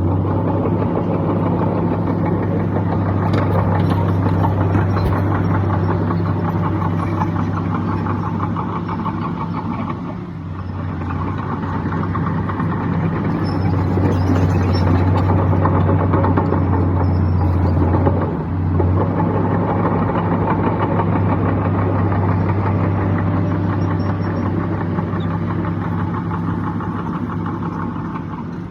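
Heavy diesel engine of earthmoving machinery running steadily, its note easing briefly twice, about ten seconds in and again a little past the middle.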